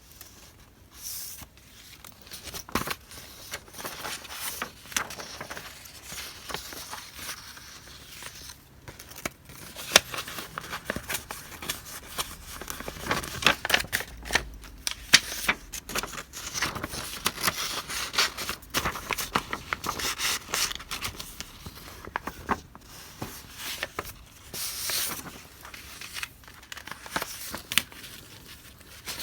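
Paper goods and their wrapping being handled: irregular rustling and crinkling with many small clicks and taps, busiest in the middle stretch.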